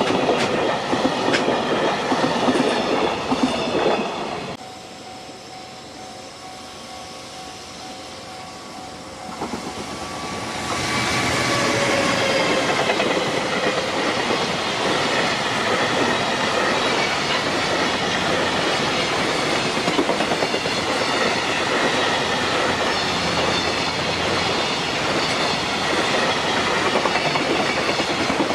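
Container freight trains passing close by, the wagons' wheels clattering over the rail joints. Partway through the noise drops to a quieter stretch where the level-crossing warning bell rings with a few steady tones, then about ten seconds in another freight train arrives and runs past loudly, wheels clattering without a break.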